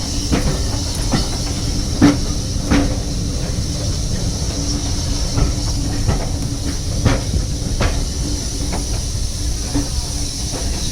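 Heritage railway train running on the track: a steady rumble and hiss with irregular sharp clicks and knocks from the wheels and coaches.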